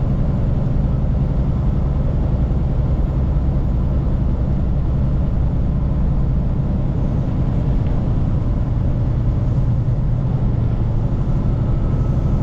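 A vehicle engine running steadily under way: a continuous low drone with road noise, holding the same pitch and level throughout.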